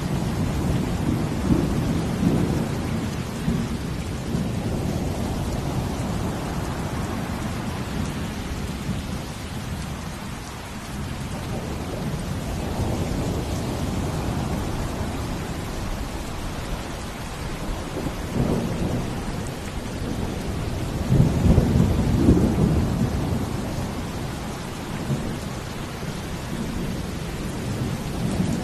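Steady falling rain over deep, rolling low rumbles that swell and fade every few seconds, the strongest about three quarters of the way through; a rain-and-ocean-waves ambience.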